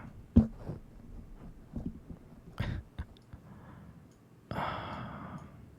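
Soft, scattered clicks and light handling sounds close to an ASMR microphone, then a breathy sigh about four and a half seconds in.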